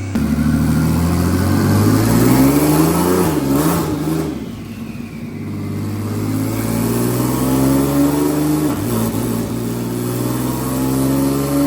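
Twin-turbo VR30 V6 in a Nissan 350Z running hard under load, its pitch climbing and dropping back twice, about four and a half and nine seconds in, before climbing again.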